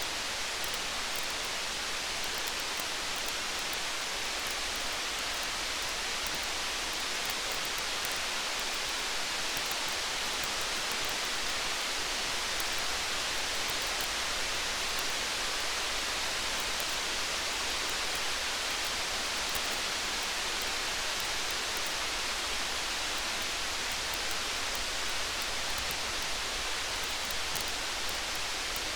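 Rain falling steadily as an even hiss, with faint fine ticks scattered through it.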